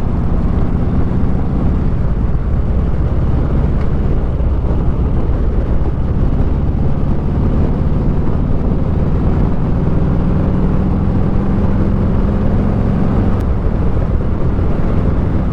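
Motorcycle engine running steadily at cruising speed under a rush of wind noise. The engine note rises slightly about ten seconds in, then settles back.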